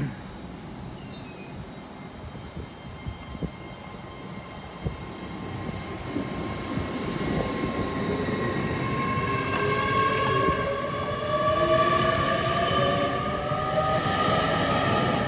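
GWR Class 802 bi-mode express train pulling away from the platform, a whine of several tones rising steadily in pitch as it picks up speed and grows louder. A few light knocks come before the whine builds.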